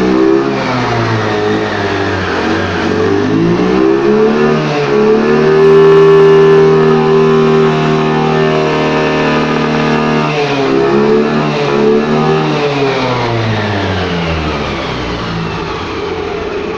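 Yamaha Fascino scooter's single-cylinder four-stroke engine being revved on the stand: the pitch rises and holds high for several seconds, drops, rises briefly once more and settles back toward idle. It breathes through an aftermarket part fitted on the intake hose in place of the stock air filter, and its sound has changed a lot from stock.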